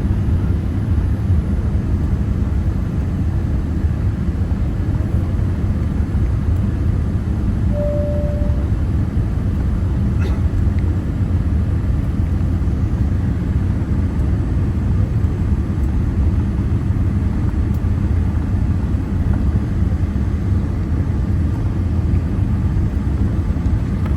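Cabin noise of a Boeing 787-8 airliner descending to land: a steady low rumble of airflow and engines, with a brief single tone about a third of the way in.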